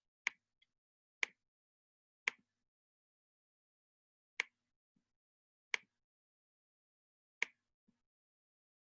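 Six short, sharp clicks at uneven intervals over near silence.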